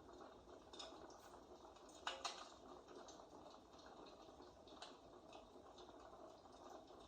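Faint crackling of a wood fire: soft steady hiss with scattered pops and crackles, the loudest pair of pops about two seconds in.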